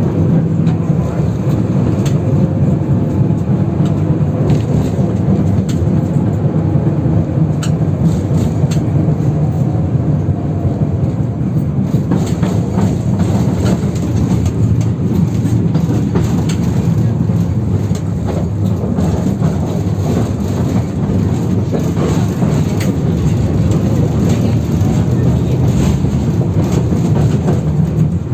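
Inside a moving 71-608KM tram: steady loud running rumble of steel wheels on rail, with frequent clicks and knocks as the car rolls over joints and rough, badly worn track.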